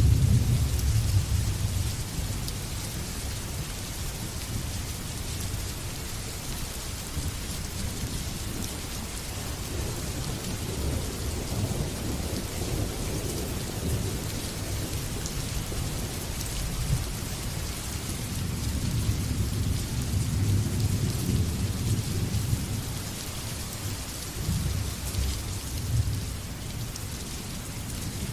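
Heavy rain falling steadily, with rolling thunder rumbling low underneath; the rumble is strongest at the start and swells again about ten seconds in and about twenty seconds in.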